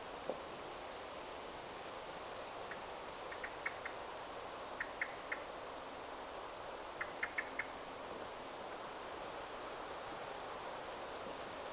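Steady rustle of wind through forest trees, with small birds giving short chirps in quick clusters of three or four and scattered faint high-pitched ticking calls.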